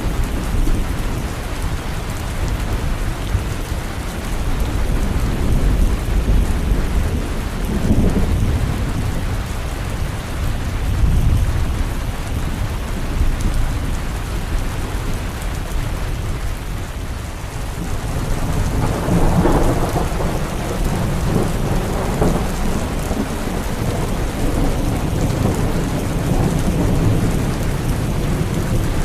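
Steady heavy rain with rolls of thunder that swell and fade several times, the strongest past the middle.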